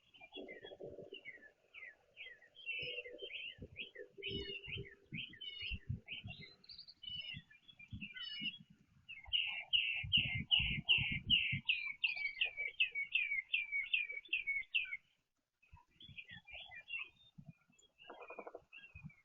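Songbirds chirping and calling, with a rapid run of about eighteen evenly repeated notes, roughly three a second, in the middle that is the loudest part. Soft low knocks and taps come in between the calls.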